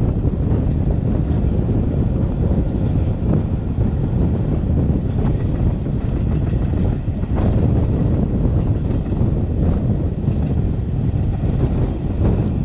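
Steady low rumble of a Matterhorn Gotthard Bahn train running along the line, heard on board, with wind noise on the microphone and a few faint clicks.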